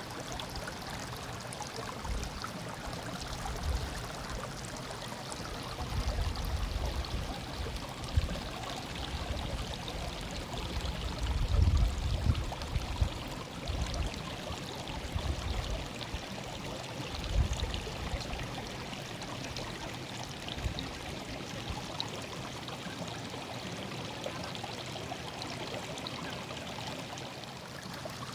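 A small stream murmuring steadily, with irregular low rumbles coming and going through the middle and loudest about halfway through.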